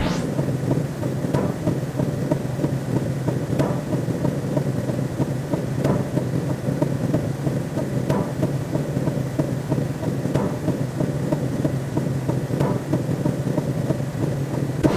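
Synthetic sci-fi ambience sound effect: a continuous low, dense rumble with a faint click about every two seconds.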